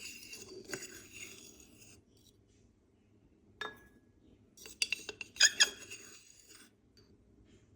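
Glassware clinking: a scraping rattle at first, a single ringing clink about three and a half seconds in, then a quick run of sharp clinks and knocks about a second later.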